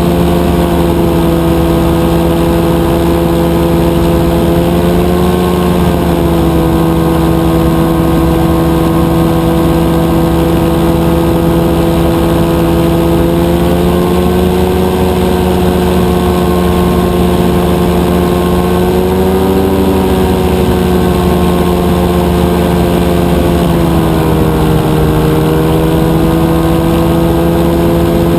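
Rotax 582 two-cylinder two-stroke engine of a powered parachute running steadily at flying power, its pitch shifting slightly up and down a few times with small throttle changes.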